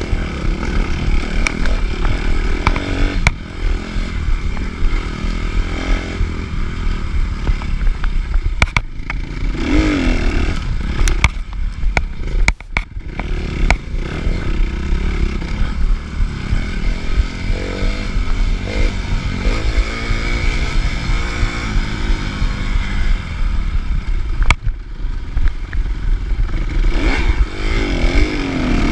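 Suzuki RM-Z250 motocross bike's single-cylinder four-stroke engine revving up and down as it is ridden hard, with sharp knocks and clatter at intervals, most of them in a cluster about halfway through.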